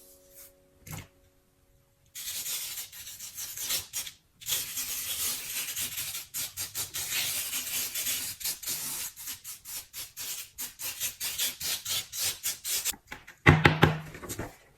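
Grains of sand being rubbed by hand into adhesive sticker paper: quick, continuous gritty rubbing strokes, several a second, with a short louder rustle near the end.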